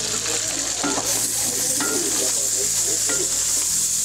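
Diced onion sizzling in hot lard with fried chicken pieces in a cast-iron pot, stirred with a wooden spoon that scrapes the pot a few times. The sizzle grows brighter about a second in.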